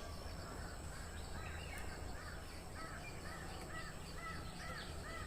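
Faint outdoor sound of a bird calling over and over, a short arched note repeated about two or three times a second from about a second and a half in, over a low steady background rumble.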